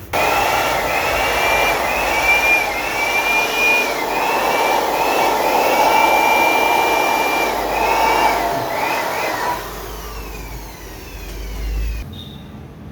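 Freshly rebuilt turbocharger spun up for a test run: a loud rush of air with a high whistling whine that swells and dips about once a second. After about nine and a half seconds the rush fades and the whine glides down as the rotor winds down.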